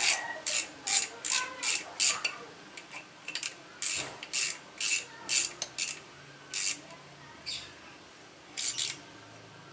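Hand ratchet wrench clicking in a run of quick back-and-forth strokes, about two a second, slowing to a few single strokes near the end.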